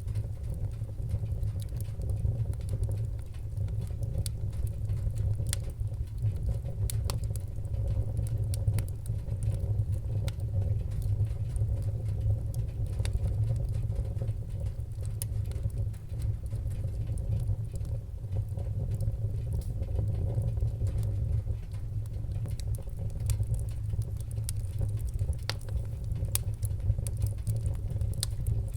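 Wood-burning fire crackling: scattered sharp pops and snaps over a steady low rumble.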